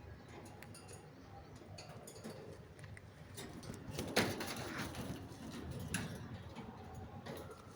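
A parrot gives one loud, harsh squawk about four seconds in, with a few softer calls after it, amid light clicks and taps.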